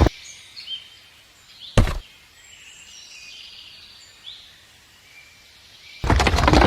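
Birds chirping in the background, with a single sharp knock about two seconds in and a dense rattle of rapid knocks starting near the end.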